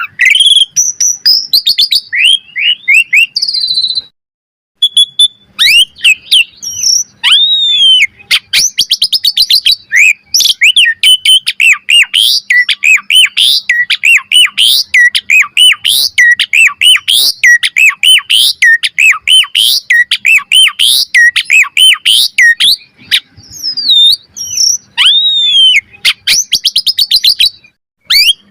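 Asian pied starling (jalak suren) in full, loud song: a varied run of whistled slurs, chirps and rapid rattling trills, broken by a short pause about four seconds in.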